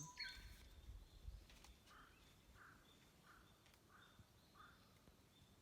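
Quiet outdoor ambience with a bird repeating a short call note five times, about one every 0.7 seconds, in the middle of the stretch.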